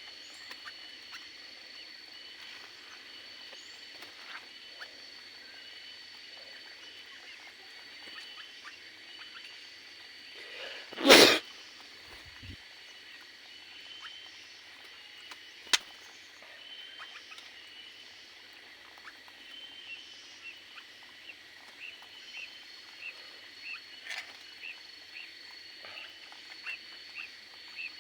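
Small aviary birds giving short repeated chirps, coming about once a second in the last third, over a steady high-pitched whine. A loud brief rustling burst comes about 11 seconds in, and a sharp click a few seconds later.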